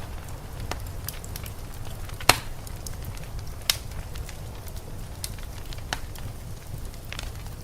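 Wood fire crackling in a fireplace: scattered sharp pops and snaps, two louder ones a couple of seconds and nearly four seconds in, over a steady low rumble.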